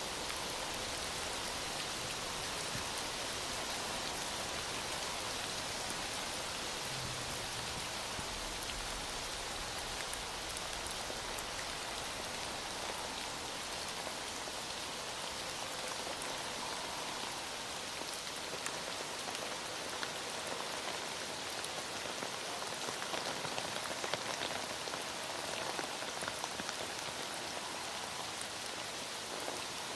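Heavy rain falling steadily, a dense even hiss of rain on surfaces, with scattered sharper drop ticks that come more often in the second half.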